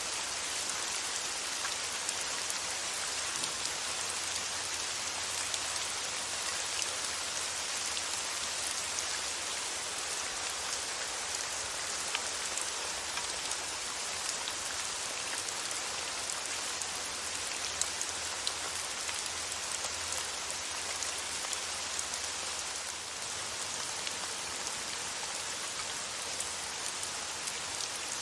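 Steady rain falling on a surface, an even hiss with scattered faint drop ticks, used as soothing white noise.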